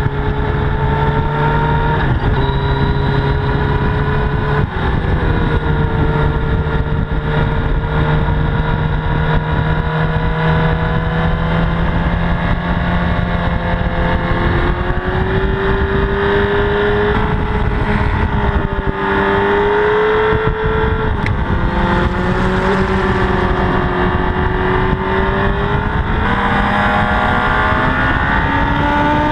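Honda CBR1000RR's inline-four engine running hard, heard from an onboard mount, its pitch climbing and falling with several abrupt steps as the rider changes gear.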